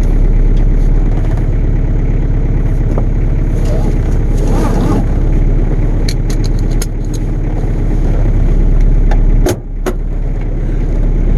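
Ford Ranger's 2.2-litre four-cylinder diesel idling steadily, heard from inside the cab, on a slightly fast idle with the cold start knob still pulled out. A few light clicks come past the middle, and near the end there is a short clunk with a brief dip in the engine sound.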